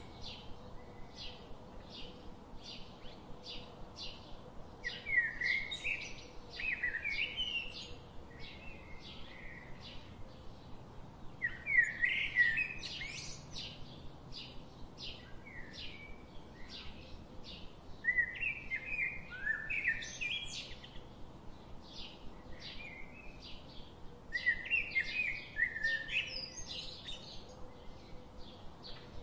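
Birdsong: a twittering phrase comes every six or seven seconds over a steady run of short, high chirps a few times a second.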